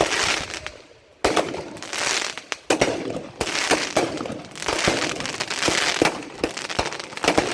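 Fireworks going off close by: a rapid run of sharp bangs, each trailing into a crackling hiss.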